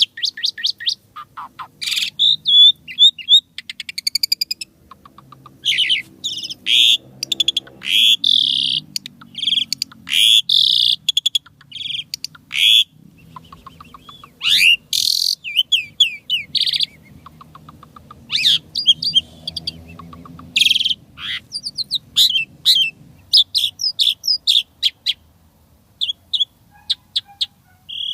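Asian pied starling (jalak suren) singing a fast, varied song in short bursts of rapid trills, whistles and harsh chattering notes, packed with learned phrases (isian).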